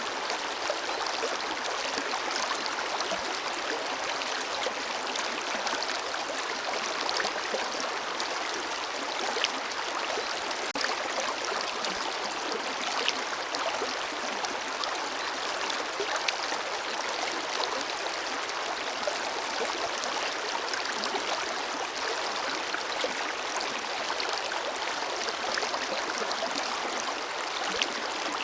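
Forest river flowing steadily over stones, a continuous rushing with small splashes and gurgles scattered through it.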